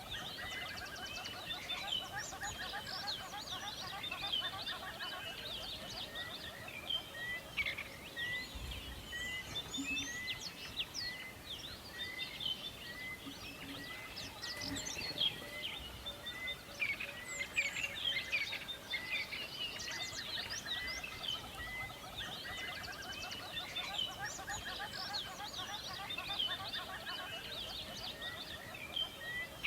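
Many songbirds chirping and singing at once, a dense dawn-chorus-like mix of calls, with one bird repeating a short note about once a second throughout.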